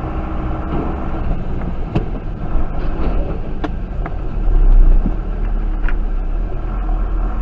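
Car driving noise picked up by a dashcam: a steady low rumble of engine and road, swelling louder about four and a half seconds in, with a few light clicks.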